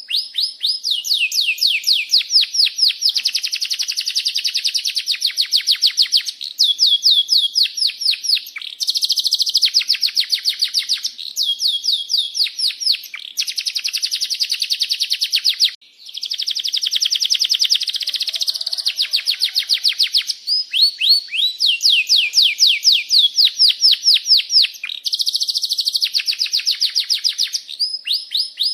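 Domestic canary singing a long, rolling song of fast trills, many quick falling chirps a second, phrase after phrase with short breaks and one brief pause near the middle.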